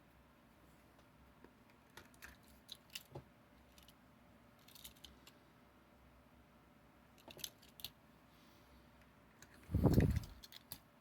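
Small scattered clicks and taps of die-cast toy trucks being picked up and handled, with one louder dull thump near the end.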